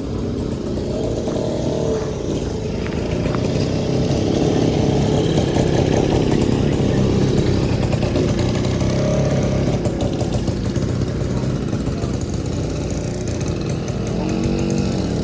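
A motor vehicle's engine running close by, growing louder through the middle and easing off again.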